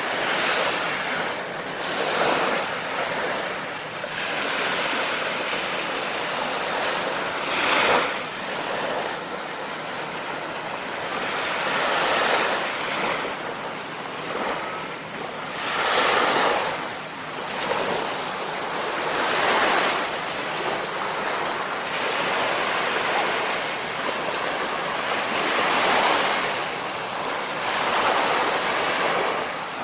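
Ocean waves breaking and washing in: a steady hiss of surf that swells with each wave every few seconds.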